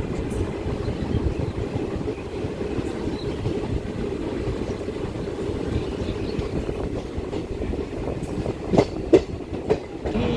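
Doon Express passenger train running on the rails: a steady low rumble of the coach. Three sharp clacks come close together near the end.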